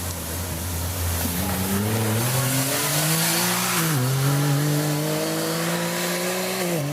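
Racing engine accelerating hard through the gears: its note climbs, drops sharply at an upshift about four seconds in, climbs again and drops at another shift near the end, over a steady hiss.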